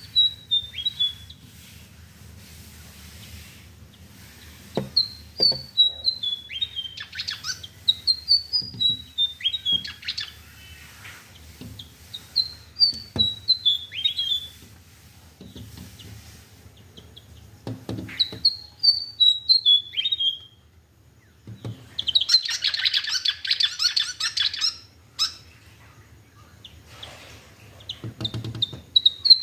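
A bird singing: repeated short phrases of high, clear notes stepping downward in pitch, every few seconds. About three quarters of the way through comes a dense burst of rapid, scratchy chatter lasting a few seconds.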